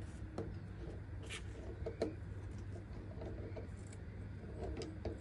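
Faint scattered clicks and light taps of metal handling as a brass tap valve is screwed back in and tightened with a spanner.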